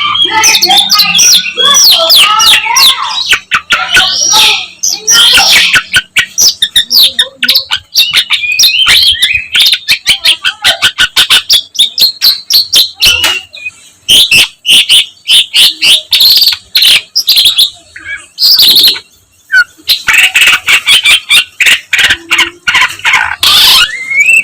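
Long-tailed shrike (pentet) singing loudly: a fast, varied run of chattering notes and warbled phrases, broken by a couple of short pauses.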